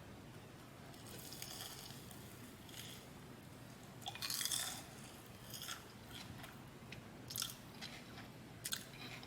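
Close-up eating sounds: a person biting and chewing crisp food, with crunchy bursts every second or two, loudest about four and a half seconds in.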